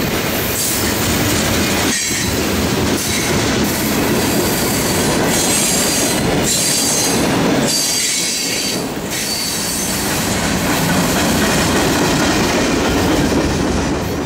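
A freight train's cars rolling past at speed: a steady loud rumble and clatter of steel wheels on rail, with a high-pitched wheel squeal swelling and fading several times. The train's tail end goes by near the end.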